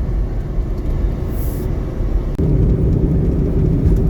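Engine and road noise heard inside a four-wheel-drive truck on the move, a steady low rumble. About two-thirds of the way through it steps up to a louder, steadier hum.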